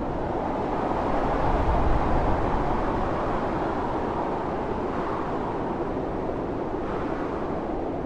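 Blizzard wind howling, a steady rushing noise with a low rumble, swelling in a gust about two seconds in and then easing.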